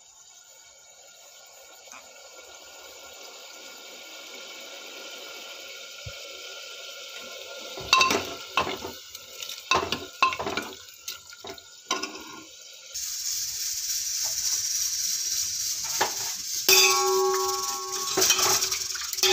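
Steel pots and utensils clattering and knocking, then water running from a tap into a metal vessel for about the last six seconds, with a few more clinks.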